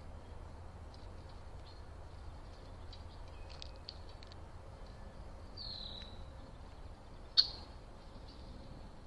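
Small songbirds giving short, high chirps at scattered intervals, with one down-slurred call about halfway through and a single sharp, loud chip near the end.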